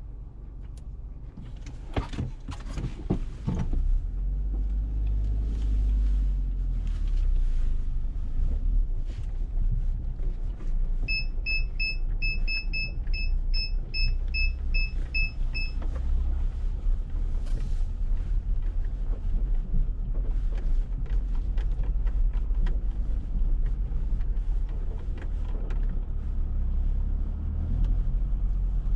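Low, steady running of a 2017 Dacia Duster's 1.6 SCe naturally aspirated four-cylinder petrol engine, heard from inside the car and coming in about four seconds in after a few clicks and knocks. In the middle comes a string of about a dozen short electronic beeps from the car.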